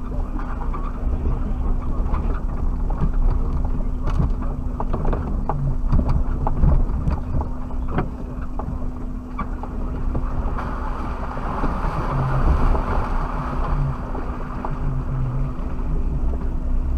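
Suzuki Jimny driving off road, heard from inside the cabin: a steady engine drone and low rumble with frequent knocks and rattles as it jolts over rough ground, and a rushing hiss that swells for a few seconds around the middle.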